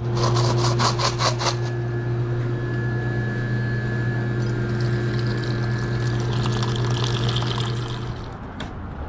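Steady machine hum with a rushing, airflow-like noise over it. A quick run of ticks sounds in the first second and a half, and the rushing thins out near the end.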